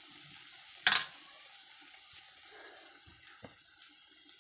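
Batter frying in hot oil in a steel wok, a faint steady sizzle, with one sharp clink of a metal spoon about a second in and a soft knock near the end.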